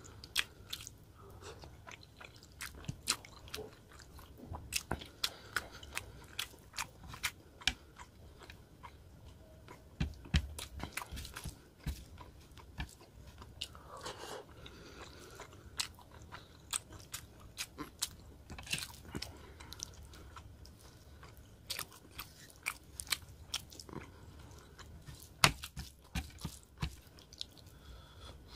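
A person chewing mouthfuls of rohu fish curry and rice, miked up close, with many irregular sharp wet mouth clicks.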